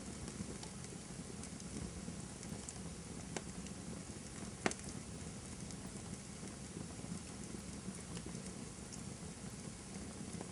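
Wood campfire burning with a steady soft hiss and light crackle, and two sharper pops of burning wood, one about three and a half seconds in and a louder one about a second later.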